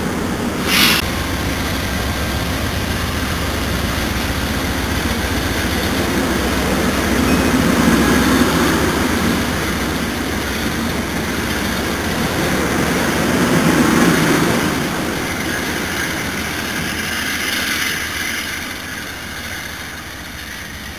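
NJ Transit commuter train of Comet coaches rolling past, a steady rumble of wheels on rail with a diesel engine underneath that swells twice and then fades as the train pulls away. A short sharp sound about a second in.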